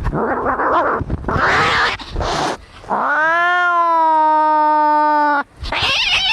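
Cats fighting: harsh, raspy screeching at first, then one long drawn-out yowl of about two and a half seconds, rising a little at its start and then held steady, followed by more harsh screeching.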